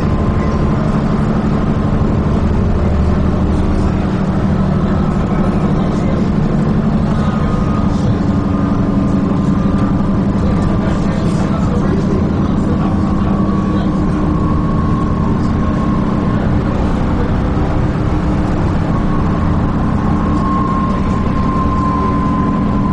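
Dennis Trident 2 double-decker bus's diesel engine and drivetrain running steadily as the bus drives, heard from on board, with a high whine that drifts gently in pitch.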